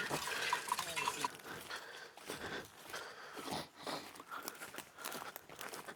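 Footsteps and rustling through forest undergrowth, an irregular run of short crunches. A few faint metallic clinks come in the first second.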